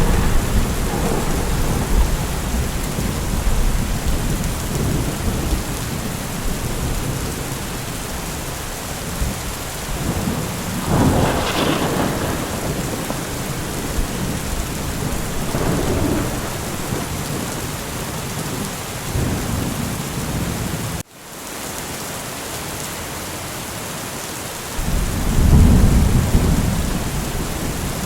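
Steady heavy rain with rolling thunder rumbling and fading several times, loudest near the end. About three quarters of the way through, the sound cuts out for an instant and then resumes.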